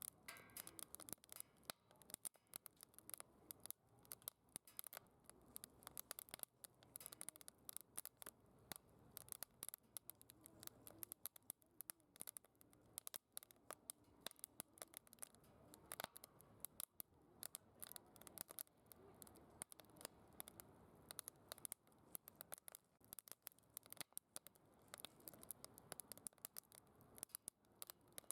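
Faint crackling of firewood burning in a DOD Mecha Moe Fire secondary-combustion fire pit, many sharp irregular snaps and pops.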